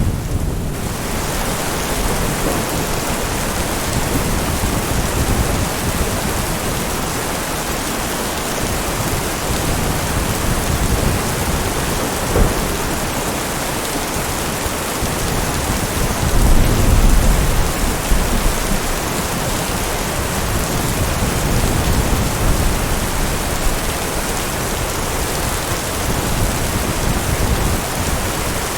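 Steady heavy rain with low rolls of thunder, the strongest rumble about halfway through.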